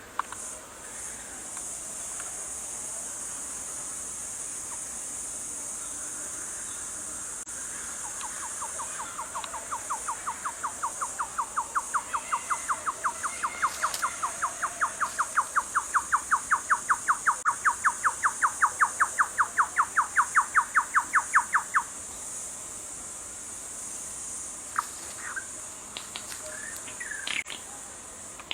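A steady, high-pitched buzz of rainforest insects runs throughout. About eight seconds in, a rapid pulsed call starts, about four or five pulses a second. It grows louder over some fourteen seconds, then cuts off suddenly, and a few faint chirps follow near the end.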